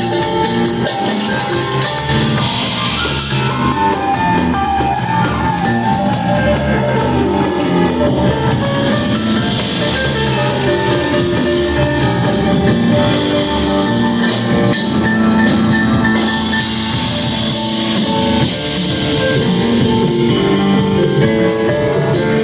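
Rock band playing live, drum kit and guitars driving a steady beat at full volume.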